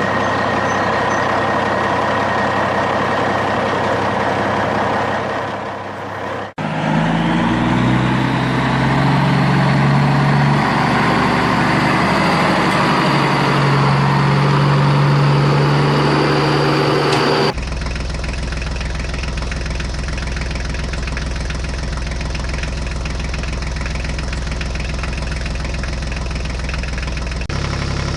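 Heavy machine engines running in three spliced stretches that switch abruptly, once about a quarter of the way in and again past the halfway point. In the middle stretch the engine's pitch shifts up and down as it works.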